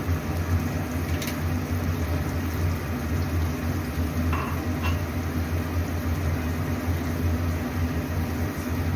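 Steady low hum of a kitchen fan, with a few light clinks of a cooking utensil about a second in and again a little past four seconds.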